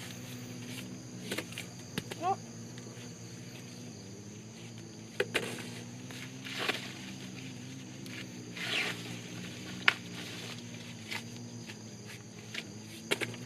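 Scattered knocks and rustles from handwork outdoors over a steady low hum, with a short rising call about two seconds in.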